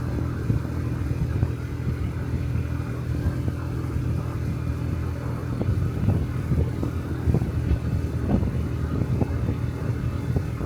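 Honda Dio cesta 50cc four-stroke scooter engine running steadily while riding, with wind buffeting the microphone in irregular gusts.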